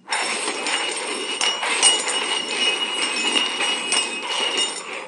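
Small stainless-steel cups being slid and shuffled fast across a hard floor: a continuous metallic scraping and rattling with a thin ringing from the cups, which starts and stops abruptly.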